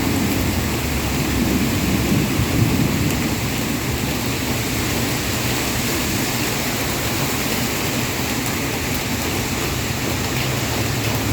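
Heavy rain falling steadily, with a low rumble fading away over the first few seconds.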